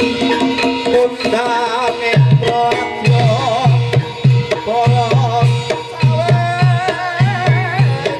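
Javanese gamelan music led by kendang hand drums, beating a steady pattern of low pitched strokes about two a second, under a wavering melody line and steady ringing tones.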